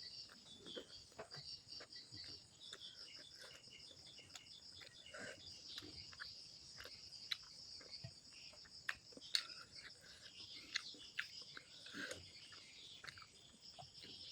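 Faint steady chirring of insects in the background, with scattered soft clicks and smacks of someone eating by hand; the sharpest click comes about nine seconds in.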